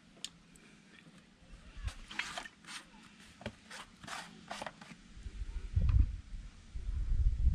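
Handling noises: a run of short scrapes and clicks, then low rubbing and rumbling that grows louder near the end.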